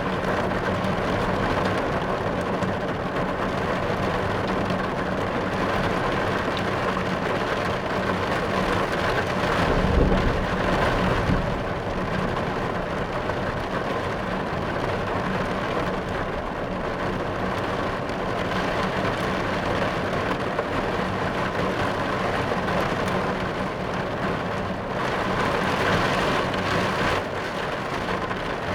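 Rain falling steadily on a car's roof and windows, heard from inside the car, with a low rumble of thunder about ten seconds in.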